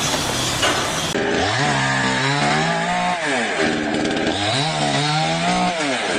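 Noisy clatter, then from about a second in an engine revving up, holding, and dropping back, twice over.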